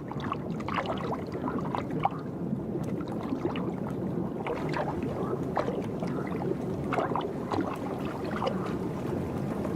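Continuous splashing and sloshing of shallow water, with many small quick splashes, as mating frogs and toads thrash and grapple in a pond.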